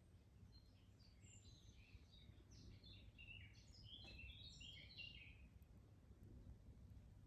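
Faint songbird song: a quick jumble of short, high chirps and warbled notes for about five seconds, then it stops. A steady low background rumble runs underneath.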